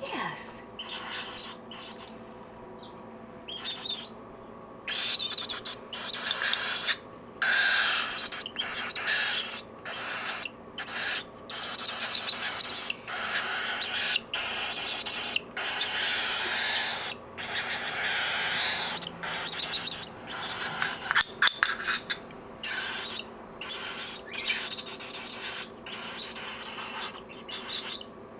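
Baby cockatiel's raspy food-begging calls, repeated in bursts of about half a second to a second with short gaps, while it is spoon-fed formula.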